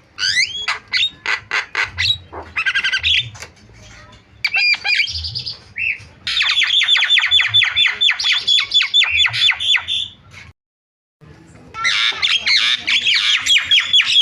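Javan myna (jalak kebo) singing a loud, chattering song of harsh squawks and whistles, with long runs of quick repeated down-slurred notes. It cuts off completely for a moment a little after two-thirds of the way through, then carries on.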